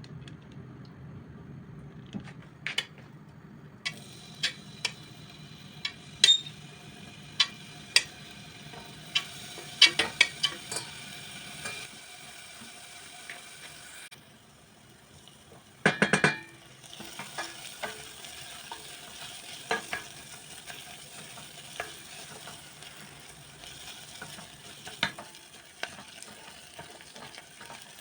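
Kitchen utensil stirring in a bowl, clinking against its side in irregular sharp ringing taps over a faint hiss, with one louder clatter about sixteen seconds in.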